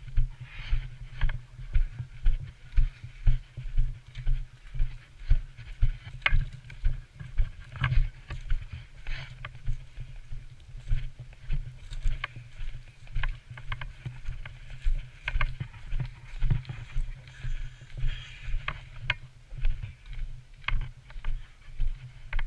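Footsteps at a brisk walk, about two steps a second, picked up as dull thumps by a body-worn camera, with a light rustle of clothing and gear over them.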